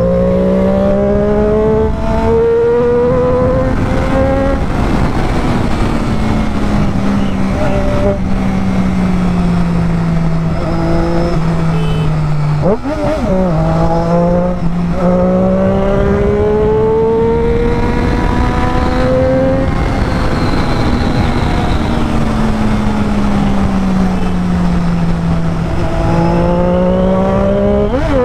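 Triumph Daytona 675R's three-cylinder engine under way, heard from the rider's position with wind noise. The engine note slowly rises and falls several times with the throttle, and about halfway through it dips sharply and jumps straight back.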